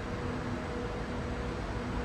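Taichung MRT Green Line train running into the station: a steady rumble with a faint intermittent hum.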